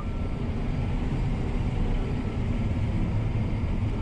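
John Deere T670i combine harvester running steadily under load while cutting oats, a constant low drone with no breaks.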